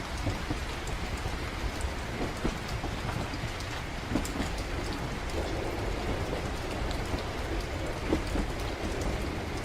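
Steady rain on a moving train, with a constant low rumble of the train running underneath and many small scattered drop ticks.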